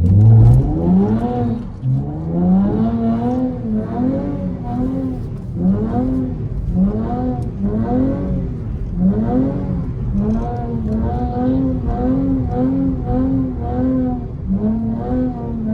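Car engine revved up and down over and over, about once a second, as the car is slid on wet pavement.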